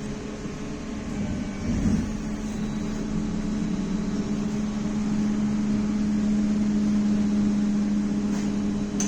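Steady electrical hum inside a BKM-321 trolleybus, growing gradually louder, with a few faint clicks near the end.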